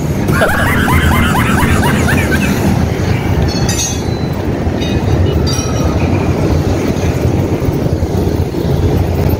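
Wind rumbling on the microphone of a moving bicycle, mixed with heavy-truck and car traffic passing close by on a busy highway. There are two short hissy bursts, about 4 and 5.5 seconds in.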